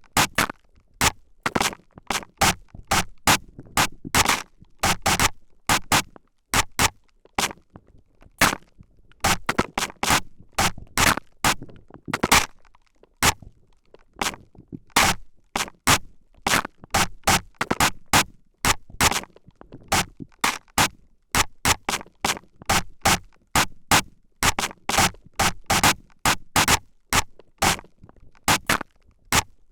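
Spray bottle spraying close-up in quick, short hissing squirts, about two a second, some louder than others.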